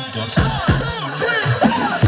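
Loud electronic DJ remix music played through a DJ sound-system setup under test, with punchy bass drops that sweep downward in pitch.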